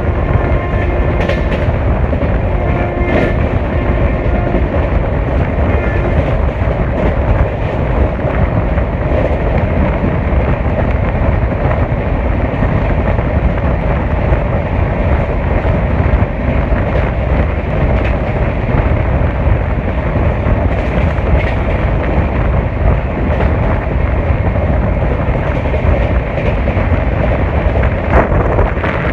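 Shatabdi Express train running, heard from on board: a steady low rumble of wheels on the rails with a few sharp clicks. A faint steady tone sounds through the first few seconds.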